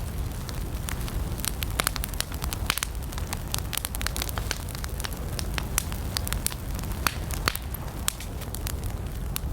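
Wood campfire burning, with a steady low rumble of flame under dense, irregular crackling and a few sharper pops.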